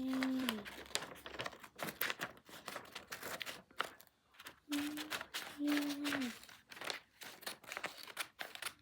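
Sheet of paper rustling and crinkling as it is handled and cut with scissors, a fast run of small crackles and snips. A couple of short hummed vocal sounds come in at the very start and again about five to six seconds in.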